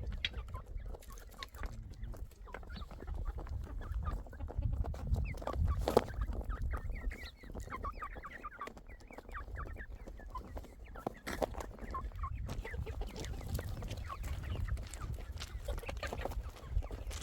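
Chickens clucking, a busy run of short clucks through the middle, over a low rumble with a few sharp knocks.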